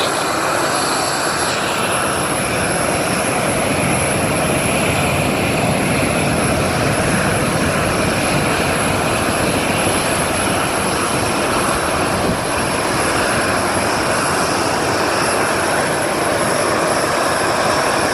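Boeing 737-900ER's CFM56-7 turbofan engines running at taxi power: a loud, steady jet noise with a thin high whine over it.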